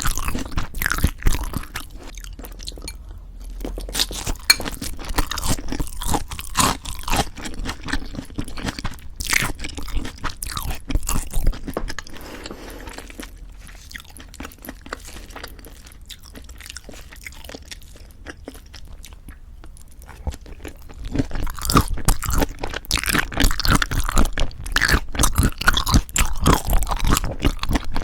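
Close-miked chewing and crunching of food in a person's mouth, with many small crackles and clicks. It grows softer about halfway through and picks up again with louder crunching near the end.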